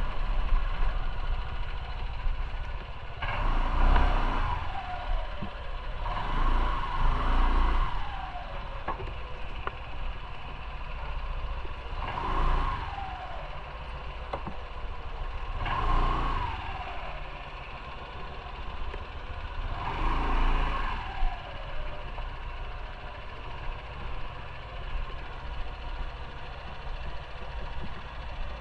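Motorcycle engine running under way, swelling louder about five times; each swell carries a tone that falls in pitch as it fades.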